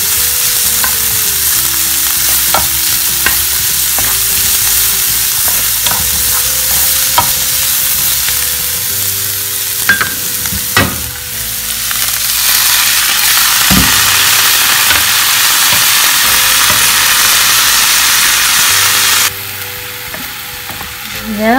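Chopped garlic and coriander sautéing in oil in a non-stick frying pan: a steady sizzle, with a wooden spatula knocking and scraping against the pan from time to time. The sizzle grows louder about halfway through and drops suddenly near the end.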